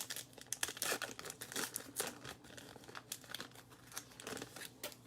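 Crinkling and rustling as baseball trading cards and their pack wrapper are handled: many small irregular crackles that thin out near the end.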